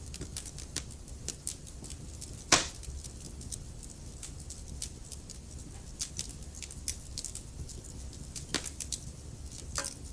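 Wood fire crackling in a fireplace: many small sharp crackles over a low steady rumble, with one loud pop about two and a half seconds in and two more strong pops near the end.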